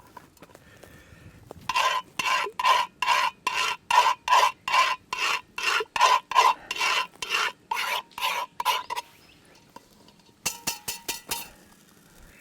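A metal utensil scraping back and forth across the bottom of a cast-iron camp oven while stirring gravy: about twenty quick, even strokes, roughly three a second, then a brief rattle of clicks near the end.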